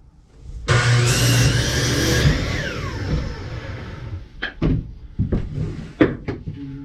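Power saw starting up and cutting through a cedar fence picket for about a second and a half, then switched off, the blade winding down in a falling whine. Several sharp wooden knocks follow as the cut pieces are handled.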